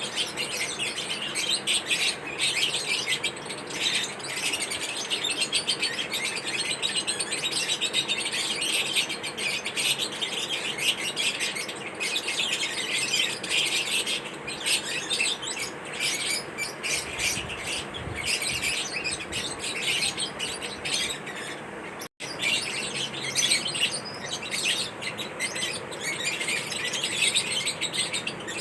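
Lovebirds chirping continuously, a dense run of rapid, high-pitched chirps from several birds, with a momentary break about three-quarters of the way through.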